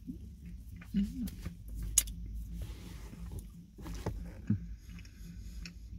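Soft, scattered chewing of a chewy granola bar, with a short hummed 'mm' about a second in, over the steady low rumble heard inside a car.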